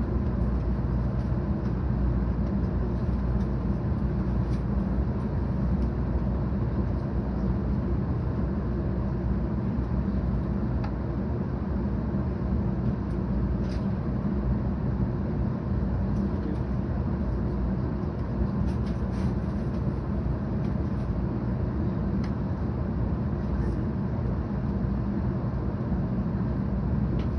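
Cabin running noise of a 700 Series Tokaido Shinkansen train underway: a steady low rumble of wheels on rail and rushing air, heard inside the passenger car.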